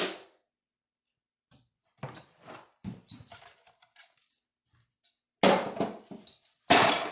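Loudspeaker wired straight to mains power, giving off short crackles and pops, then two loud sudden bangs about a second apart near the end, each fading quickly: the driver being burnt out by mains current.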